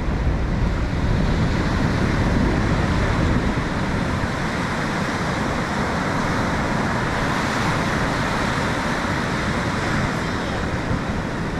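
Steady beach surf and wind, with the wind rumbling on the microphone, heavier in the first few seconds.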